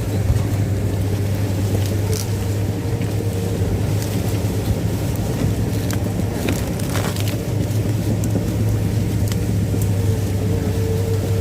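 Caterpillar crawler dozer's diesel engine running steadily with a deep, even hum, with a few sharp cracks scattered over it.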